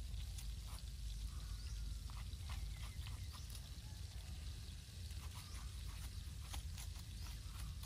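A stalk basting brush dabbing and scraping sauce onto a whole spit-roasted chicken and in a metal bowl of sauce, with many scattered short clicks over a steady low rumble.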